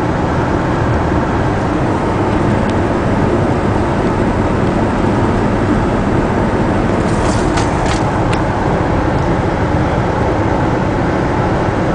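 Ford Ranger 4x4's 3.0 V6 engine and road noise heard from inside the cab while driving, steady throughout. A few short clicks come about seven to eight seconds in.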